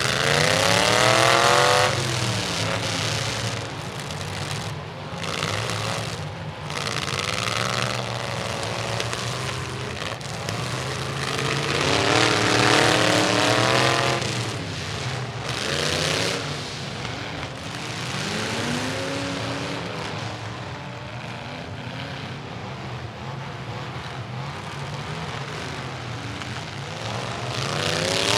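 Demolition derby trucks' engines revving hard, their pitch rising and falling again and again over a rough, noisy din, with the loudest runs near the start, about halfway through and at the end.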